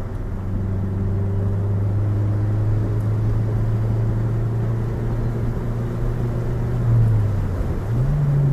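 Turbocharged 2009 Honda Civic Si's K20Z3 four-cylinder engine running at a steady cruise, heard from inside the cabin as a steady low drone over road noise. The engine note shifts in pitch near the end.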